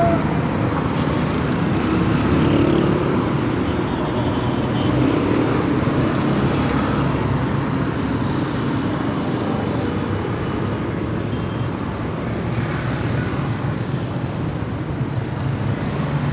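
Steady road traffic noise from passing cars and other vehicles on a busy road.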